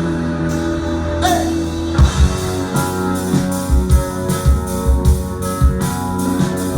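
Live rock band playing: electric guitars and bass hold sustained notes, then the drum kit comes in about two seconds in with a steady beat.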